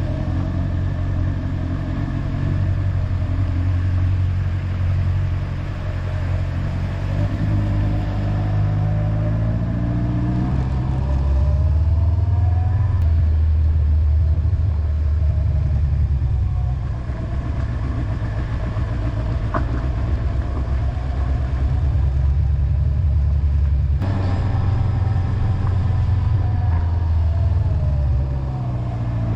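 Honda motorcycle engine running under way, heard from the bike, its note stepping up and down several times as revs and gears change, over steady wind and road noise.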